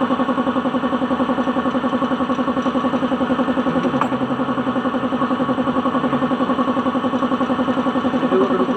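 An engine idling steadily with an even, rapid pulsing beat.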